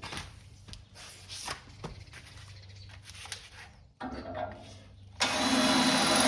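Scattered clicks and knocks of metal parts and tools being handled. About five seconds in, a power drill starts with a loud, steady whine and runs on, drilling the holes for plug welds in sheet metal.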